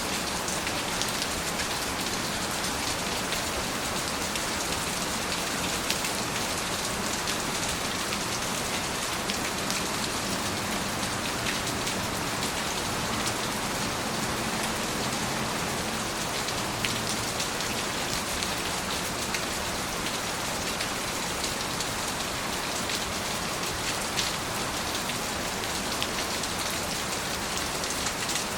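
Steady rain falling, an even hiss with occasional sharper individual drop hits.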